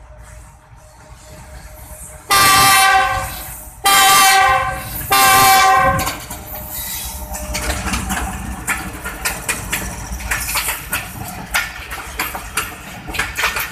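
Pakistan Railways GEU-40 diesel-electric locomotive sounding its multi-tone horn in three blasts, the first the longest, as it arrives. It then runs past, with its engine rumbling and a quick, uneven clickety-clack of the locomotive's and coaches' wheels over rail joints.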